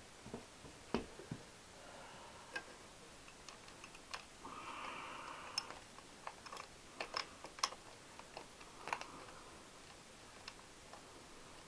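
Irregular small metal clicks and taps of a spanner and fasteners being worked on a Triumph Bonneville T120 engine while a nut is fitted on the head steady, with a brief soft scraping a little before the middle.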